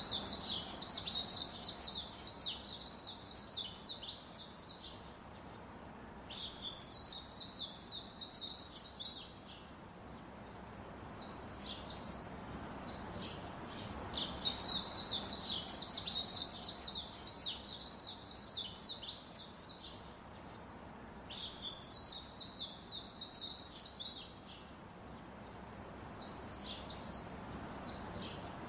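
Rapid, high-pitched bird chirping in runs of a few seconds with short pauses between, over a steady low hiss. The same phrases seem to come back about every 15 seconds, like a looped birdsong track.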